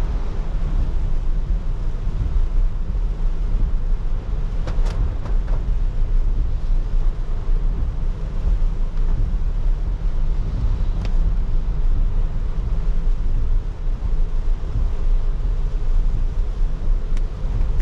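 A car driving in the rain: a steady low rumble of road and tyre noise under an even hiss of rain and wet spray, with a few sharp ticks.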